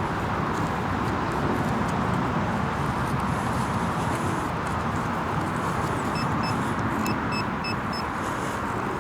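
A metal detector giving about six short, high electronic beeps over a target in the ground, in a quick irregular run in the second half. A steady rushing noise lies under them throughout.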